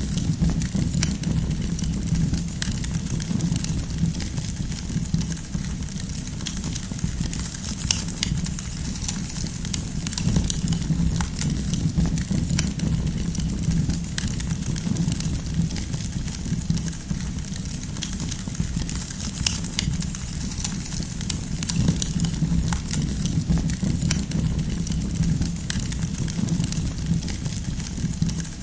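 Campfire of burning firewood crackling, with frequent irregular sharp pops and snaps over a low steady rumble of the flames.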